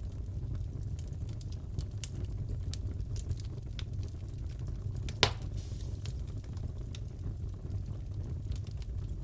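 Wood fire crackling in a fireplace: a steady low rumble with scattered small snaps, and one sharp, louder pop about five seconds in.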